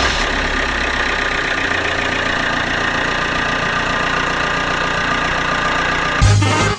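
Car diesel engine idling steadily. Loud music cuts in near the end.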